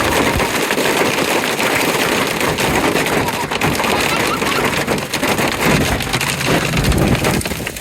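Heavy rain and hail hitting hard, a dense steady hiss shot through with many sharp clicks of hailstones striking.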